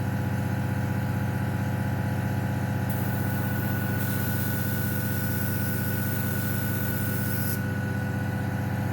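Small airbrush compressor humming steadily. About three seconds in, the airbrush sprays a hiss of air and thinned paint for four or five seconds, then cuts off sharply.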